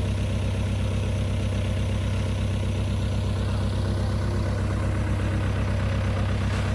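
Truck engine idling steadily with an even low, rapidly pulsing hum.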